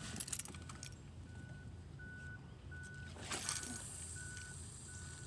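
A high beeping tone repeating evenly, about once every two-thirds of a second, over a low steady hum, with brief rustling or handling noise about half a second and three seconds in.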